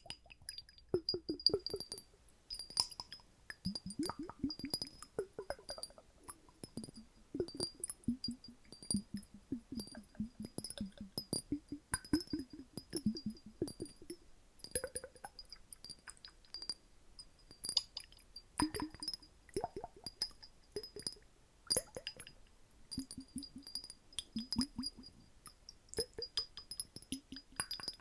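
Water sloshing inside glass bottles, with short glugging, bubbly tones and many light glass clinks.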